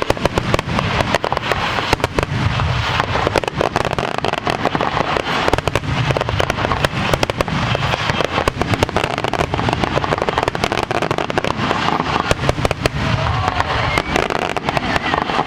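Fireworks display going off in a dense barrage: a rapid string of bangs and crackles, many a second without let-up, over a low rumble.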